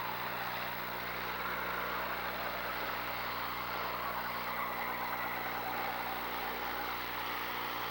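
Demolition derby cars' engines running, a steady blend of engine noise with no distinct crashes.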